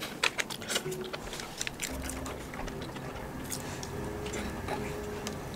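Close-up chewing and biting of soft corn bread, with a few sharp crinkles or clicks near the start. Soft background music comes in about two seconds in.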